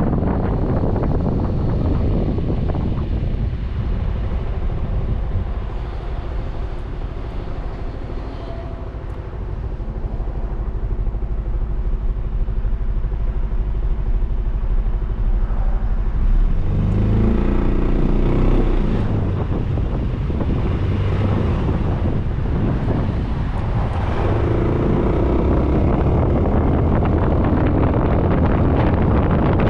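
Suzuki Burgman 400 scooter's single-cylinder engine idling steadily, with little wind on the microphone, then rising in pitch as the scooter pulls away a little over halfway through. Wind buffets the helmet-mounted microphone at speed at the start and again near the end.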